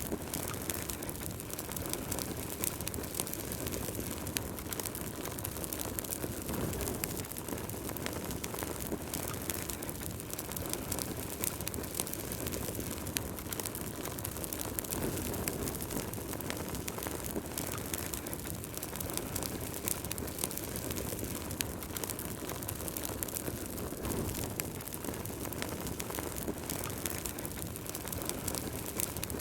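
Wood fire burning in a fireplace: a steady low rush of flames with many small, sharp crackles and pops from the burning logs scattered throughout.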